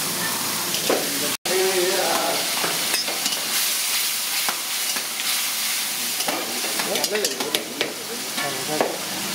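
Paneer curry gravy sizzling and frying in a hot kadai while a flat metal spatula stirs it, with a steady hiss and scattered clicks and scrapes of the spatula against the pan. The sound cuts out for an instant about a second and a half in.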